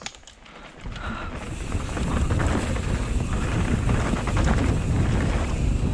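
Wind buffeting an action camera's microphone as a mountain bike gathers speed downhill, mixed with the low rumble and rattle of the tyres and bike over the dirt trail. It is fairly quiet for the first second, then builds and stays loud.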